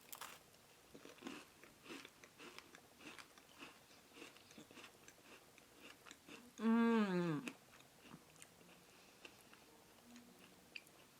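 A person chewing a crisp peppermint Milano cookie, with small crunches and mouth clicks coming every fraction of a second. About two-thirds of the way through comes one loud closed-mouth 'mmm' that falls in pitch over about a second, then the quiet chewing goes on.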